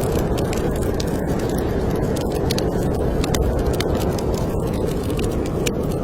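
Wood fire crackling in a fireplace, with frequent sharp snaps at irregular intervals over a steady low rushing noise of snowstorm wind.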